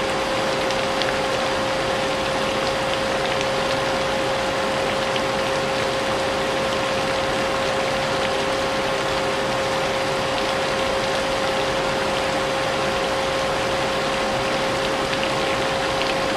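Vacuum cleaner motor running steadily with a constant whine, mixed with the steady hiss of rain and a few faint scattered drip ticks.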